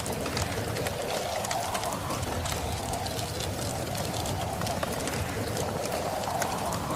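Wood fire crackling in a fireplace, with scattered sharp pops and snaps over a steady wind noise.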